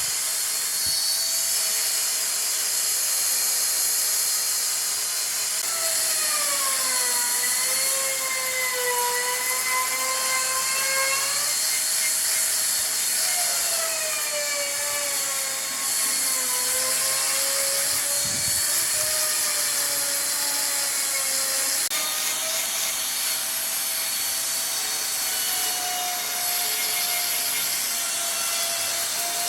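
Wood lathe running while a turning tool cuts the spinning wood: a steady hiss, with a whining tone that dips and rises in pitch twice.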